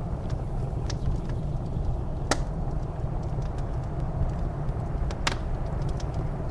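Wood fire crackling in a fireplace, with two sharp pops about two and five seconds in and fainter crackles between, over a steady low rush of blizzard wind.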